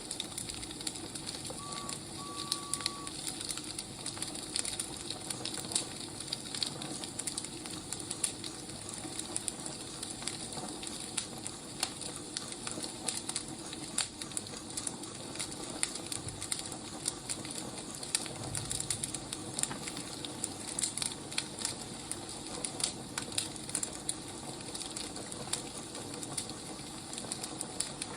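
Wood fire crackling: a steady hiss with irregular pops and snaps of burning firewood. A brief high tone sounds twice about two seconds in.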